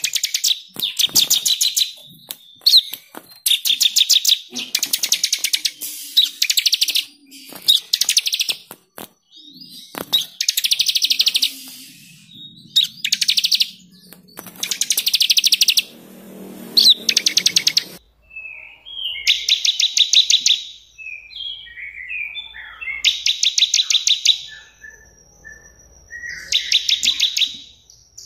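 Songbird singing fast, high trills: phrases about a second long of rapidly repeated notes, one after another, with short chirps between them. About two-thirds of the way through, the background changes abruptly and the singing goes on with more varied chirps between trills.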